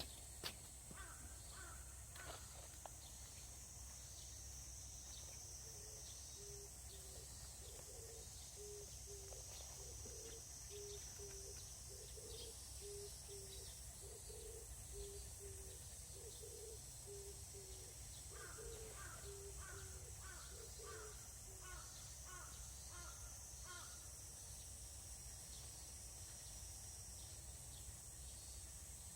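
Faint rural outdoor ambience: a crow cawing in runs of short, evenly spaced calls, over a steady high drone of insects.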